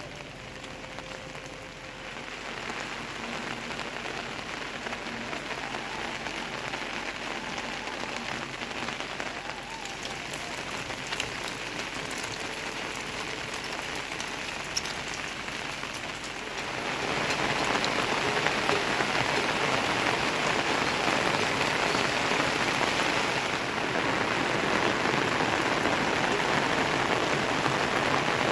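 Steady rain falling, growing heavier about two-thirds of the way through.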